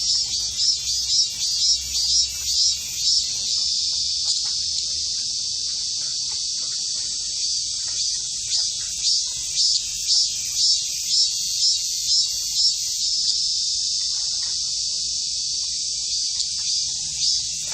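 A cicada singing: a high buzzing call that pulses about twice a second, settles into a steady buzz for a few seconds, pulses again, then holds steady near the end.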